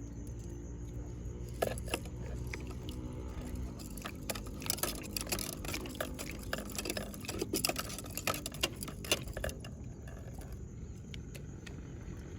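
An irregular run of small clicks and taps, densest between about two and nine seconds in, over a low steady hum.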